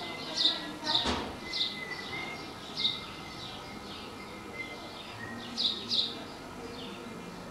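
A small bird calling: a string of short, high chirps, each sliding downward, about two a second at first and then more sparsely. One sharp click comes about a second in.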